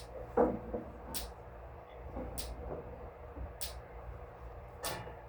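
A sharp tick repeating evenly about every 1.2 seconds over a steady low hum, with a short pitched sound about half a second in.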